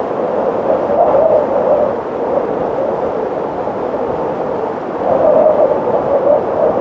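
Wind blowing: a steady rush of noise with a wavering, howl-like band in the middle, swelling in two gusts, about a second in and again around five seconds in.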